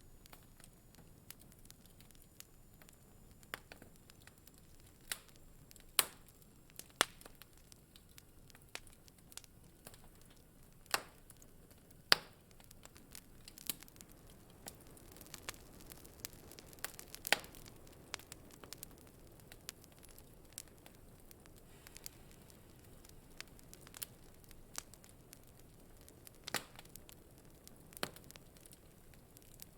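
Wood fire burning in a fireplace and crackling: irregular sharp pops and snaps, a few seconds apart, over a faint soft hiss of flame.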